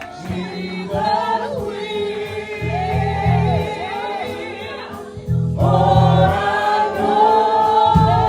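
Gospel choir singing a held, wavering line with vibrato over steady low bass notes.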